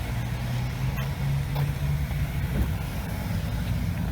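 Car engine running low and steady as the car moves slowly forward, with a faint click about a second in.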